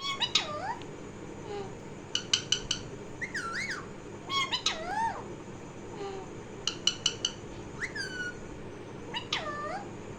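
Pet parrot calling: squawks that swoop down and back up in pitch, mixed with quick runs of three or four short, sharp chirps, repeated every second or two.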